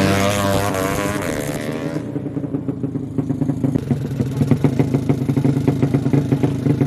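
Drag-racing motorcycle engine held at high revs, its pitch falling away over the first two seconds as the throttle is closed, then settling to a lumpy idle with rapid, uneven popping.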